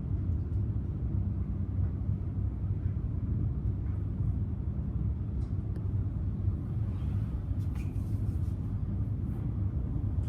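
Steady low rumble of a Siemens electric suburban train in motion, heard from inside the carriage. A few faint ticks and rattles come through near the end.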